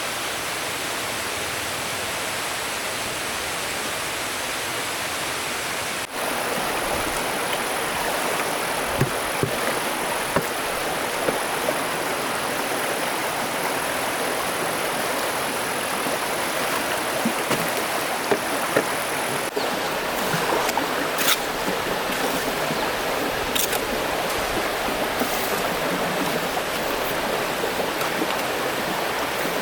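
Rushing stream water, a steady, even rush that changes abruptly twice, with a few light knocks or splashes in the middle.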